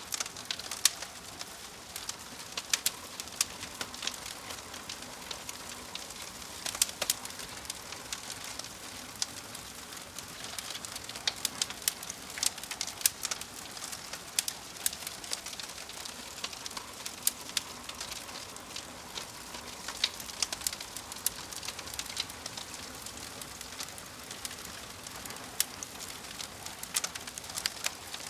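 Wood fire crackling in a fireplace: irregular sharp snaps and pops from the burning logs over a steady hiss.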